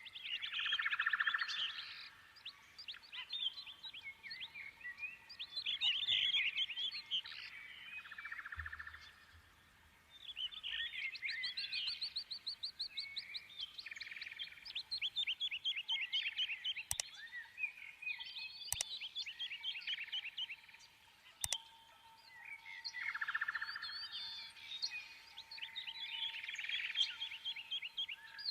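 Birds chirping and trilling, many quick calls overlapping, with a few sharp clicks in the second half.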